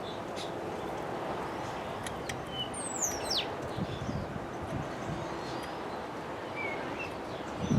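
Birds chirping, with a few short whistled notes that slide down in pitch, over a steady outdoor background hiss.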